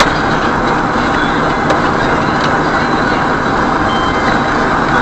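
Steady driving noise of a vehicle on the road, a constant rush of engine and tyre noise, with a few faint clicks.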